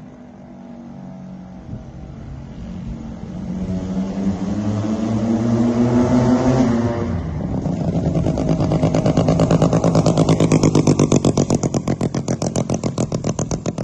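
Sachs Wankel rotary engine on a mini bike under hard acceleration: its note climbs steadily in pitch, drops briefly about seven seconds in, then comes back louder before easing off into a rapid, even pulsing near the end.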